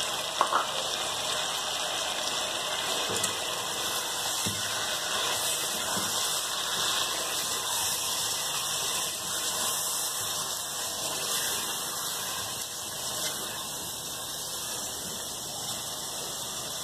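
Chicken and potato pieces sizzling steadily in hot oil as they fry, with green chilli and ginger-garlic paste just added. A couple of short knocks about half a second in.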